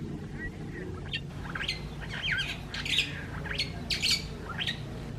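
Birds calling in a quick run of sharp squawks and chirps, roughly a dozen steeply sweeping notes packed into a few seconds starting about a second in.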